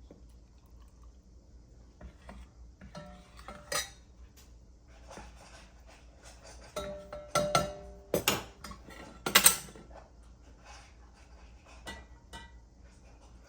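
A metal ladle clinking and knocking against a pot and glass jars while hot brine is ladled out: a scattered series of knocks with short ringing, loudest about eight to ten seconds in.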